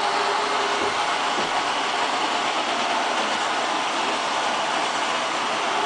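iRobot robot vacuum running with a steady hiss.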